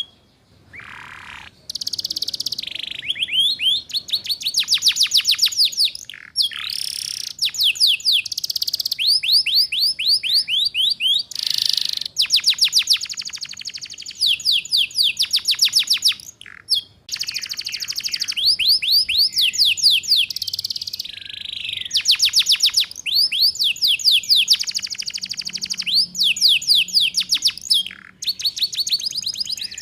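Domestic canary singing fast, high 'ngeriwik' trills of rapidly repeated notes, in phrases broken by short pauses.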